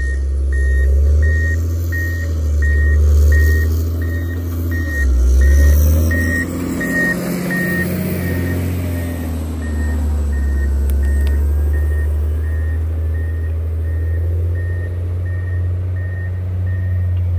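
John Deere 670 GP motor grader's diesel engine running under load while its reverse alarm beeps steadily, about twice a second, as the machine backs up. The engine note swells and eases off around the middle.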